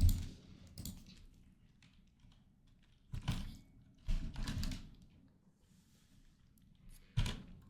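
Computer keyboard keys clicking in a few short bursts of typing, with quiet pauses between them.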